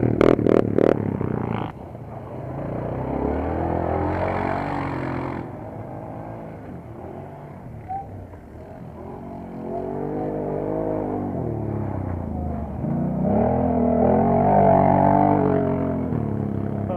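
Quad bike engines revving on an off-road mud race track, pitch rising and falling as the machines accelerate and ease off several times, with a few sharp cracks at the start.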